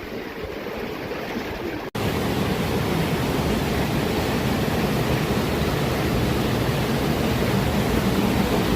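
Steady rushing of running water, a stream or cascade along a mountain trail. It cuts out for an instant about two seconds in and comes back louder and fuller.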